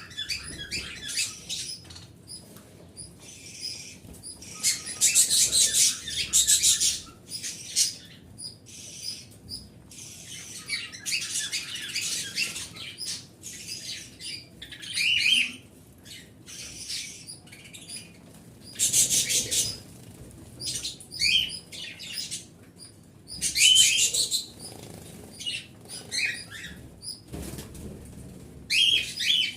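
Small pet birds chirping and chattering in loud bursts of a second or two, many high, rapid calls, with quieter gaps between.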